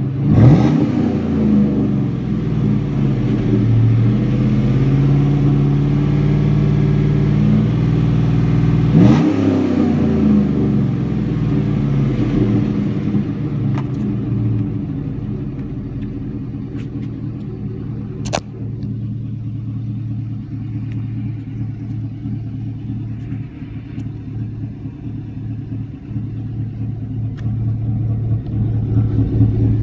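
2016 Chevrolet Silverado's 5.3-litre V8 through a Flowmaster Super 44 muffler: revved sharply twice, about nine seconds apart, each time falling back slowly in pitch. It then settles into a steady, pulsing idle.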